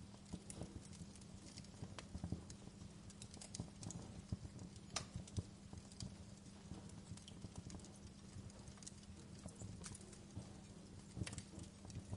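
Wood fire crackling in a fireplace: irregular sharp pops and snaps, a few louder ones about two, five and eleven seconds in, over a low steady hum.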